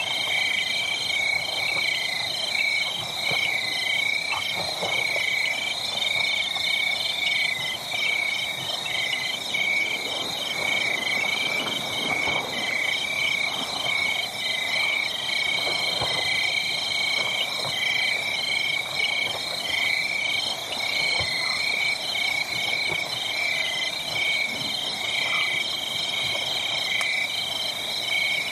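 A steady chorus of calling animals, their rapid pulsing trills running on without a break. Underneath are faint scattered crackles of a wood fire.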